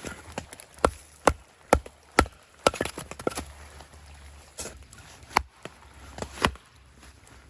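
A run of sharp knocks, about two a second for the first three seconds, then a few scattered, louder ones.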